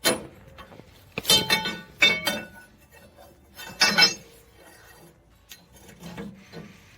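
A conduit pipe clanking and ringing as it is handled and shifted under the vehicle, with four sharp metallic knocks: one at the start, two a little over a second and about two seconds in, and one near four seconds.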